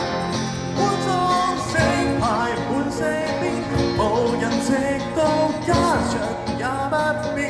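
Live band music with guitar: steady accompaniment, and from about one and a half seconds in a melody line that bends and wavers in pitch over it.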